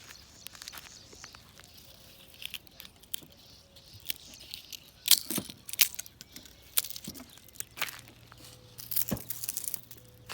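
Footsteps and rustling in dry undergrowth: irregular crunching and crackling, with sharper snaps about five seconds in and again near nine seconds.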